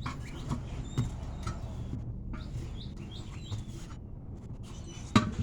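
Faint bird chirps, with a few light knocks early on and a sharper knock near the end over a low steady hum.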